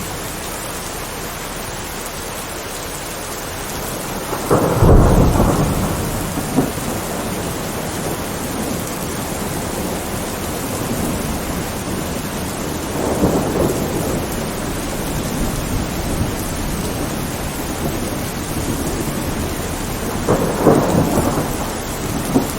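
Steady rainfall hissing throughout, with rolls of thunder rumbling over it: the loudest about four and a half seconds in, a softer one near the middle, and another near the end.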